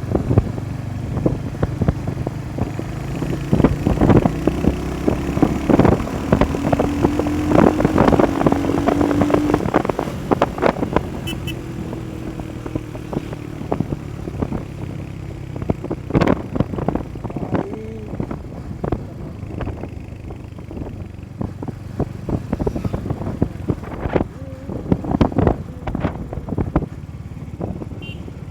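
Motorcycle engine running while riding, its note rising slowly between about four and ten seconds in as it picks up speed, with wind buffeting and flapping on the microphone.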